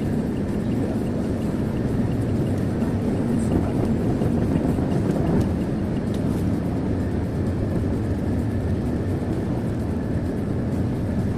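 Steady road and engine noise inside a car cruising on a highway, an even low rumble.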